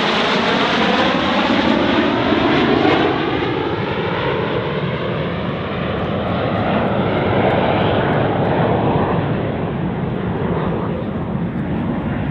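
Jet engines of a formation of Snowbirds CT-114 Tutor jets flying past, a loud steady rushing sound. Its pitch sweeps downward over the first few seconds, then swells again around the middle as the aircraft go by.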